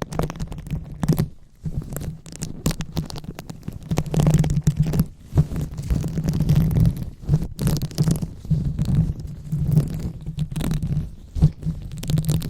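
Hands rubbing and scratching directly on the microphone in an ASMR 'brain massage': a muffled low rumble broken by irregular crackly scratches.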